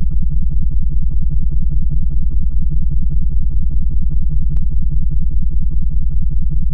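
Synthesized low drone tone for meditation, throbbing at an even rapid pulse of several beats a second, the kind of pulsed frequency track played for pineal gland decalcification.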